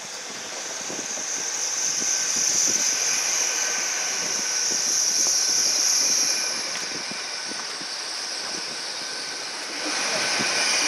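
Hitachi Class 800 Intercity Express Train passing close by: a steady rush of running noise with a high whine. It swells as the carriages go past, eases off for a few seconds, then rises again near the end.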